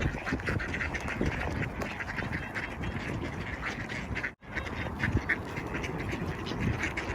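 A crowd of ducks quacking busily and overlapping as they jostle and compete for thrown food. The sound cuts out for a split second about four and a half seconds in.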